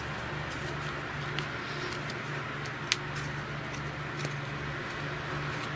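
Steady hum and rush of an electric fan blowing air, with one sharp click about three seconds in.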